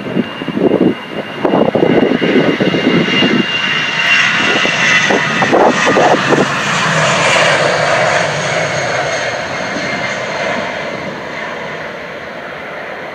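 Airbus A319 jet airliner taking off: loud engine noise with a high-pitched whine that peaks partway through, then fades steadily as the aircraft climbs away. Wind buffets the microphone in the first few seconds.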